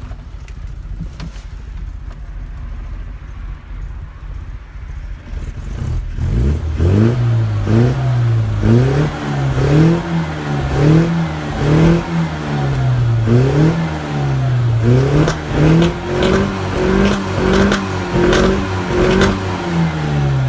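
Mini car's engine idling with a low rumble, then from about six seconds in revved up and dropped back repeatedly, a rev roughly every second. It is running again after a year laid up, though far from its best.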